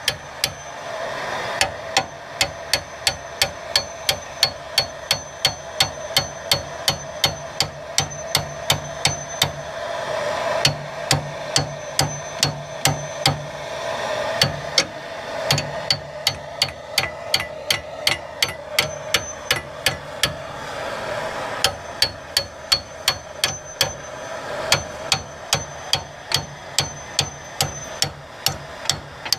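Hammer blows on metal, struck steadily about two to three times a second with a short ring after many of them, stopping briefly a few times before carrying on.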